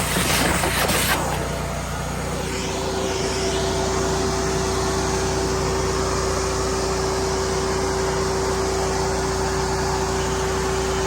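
A steady motor drone with a constant hum, after a few short hissing bursts in the first second.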